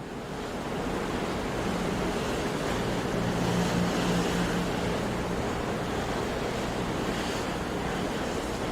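Sea surf, a steady wash of waves, fading in from silence at the start.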